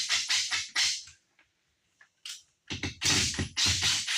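Rapid back-and-forth scraping strokes, about five a second, in two runs with a pause of roughly two seconds between them.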